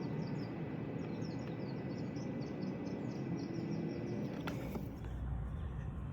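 Steady outdoor background noise with birds chirping, and a single sharp click about four and a half seconds in.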